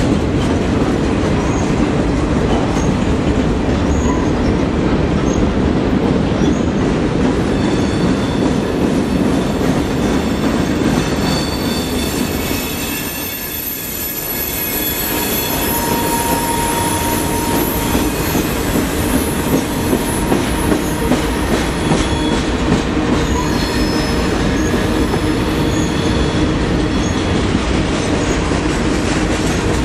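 Freight cars of a long manifest train rolling past close by: steady wheel-on-rail rumble with high wheel squeal on the curve coming and going. The sound dips briefly about halfway through.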